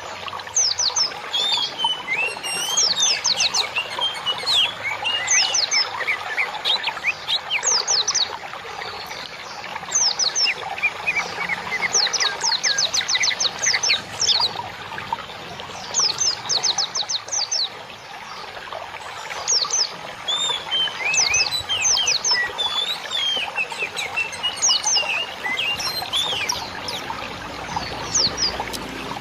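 Several small songbirds chirping and singing together without pause: quick runs of high, sharply falling notes mixed with warbling whistles, over a steady hiss of more distant calls.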